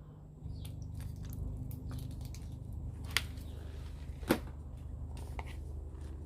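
Scattered light crackles over a low steady rumble, with two sharp snaps about three and four seconds in.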